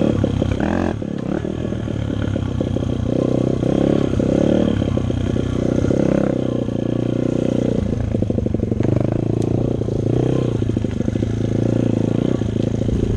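Dirt bike engine running, its note rising and falling with the throttle.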